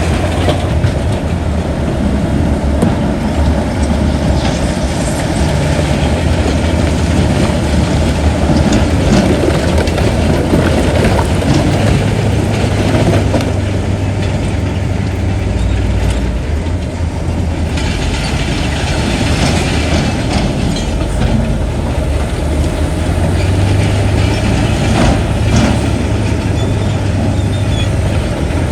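Bulldozer working: its diesel engine runs steadily under load while the steel crawler tracks clank and rattle.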